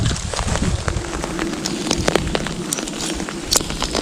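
Heavy rain: a steady hiss with many irregular sharp ticks of drops landing close by.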